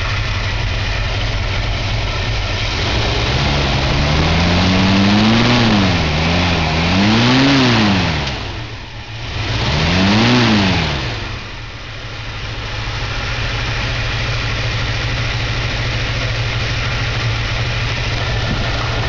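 1964½ Ford Mustang engine idling, then revved up and back down three times in quick succession, settling back to a steady idle.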